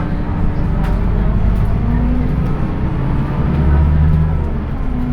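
Scania K230UB city bus's diesel engine and ZF automatic gearbox running under way, heard from inside the bus. It is a steady low drone that swells louder for about a second in the middle, then eases.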